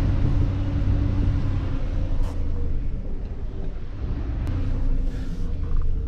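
A snowplow vehicle's engine runs with a steady low rumble while plowing (scraping) snow off a parking lot. Two short clicks are heard, about two seconds and four and a half seconds in.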